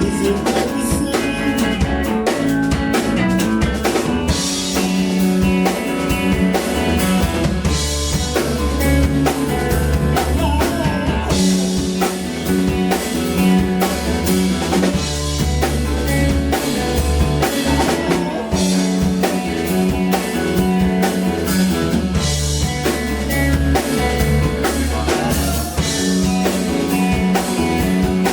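Live band playing an instrumental passage with drum kit, bass and guitar, steady beat with rimshots.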